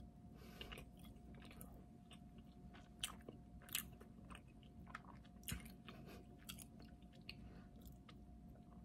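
Faint close-up chewing and mouth sounds of a person eating a forkful of soft chocolate cake with a creamy cheesecake topping, with scattered small clicks and smacks.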